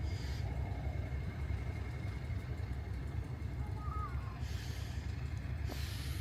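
Steady low rumble of a vehicle in motion, with two short hissing bursts near the end.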